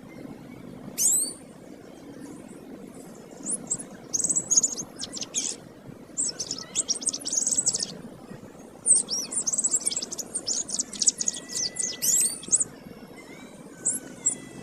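Domestic canary singing: rapid warbling, trilled phrases with quick up-and-down pitch sweeps, in several bursts separated by short pauses.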